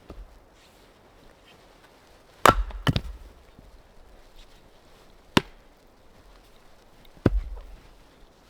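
Wood being chopped: four sharp blows, two in quick succession about two and a half seconds in, one more midway and a last one near the end.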